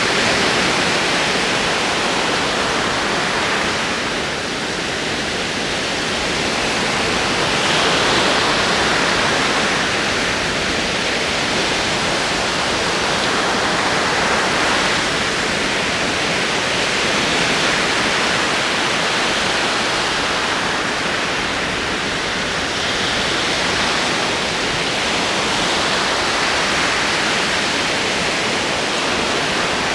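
Ocean waves rolling in: a continuous wash of surf that swells and eases every few seconds.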